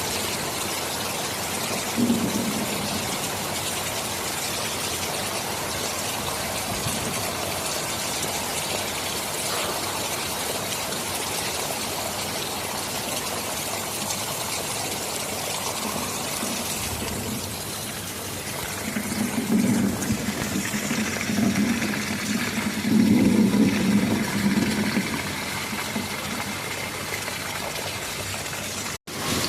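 Steady heavy rain hiss, with a low rumble of thunder swelling up from about two-thirds of the way in and rolling for several seconds. The sound cuts out for an instant near the end.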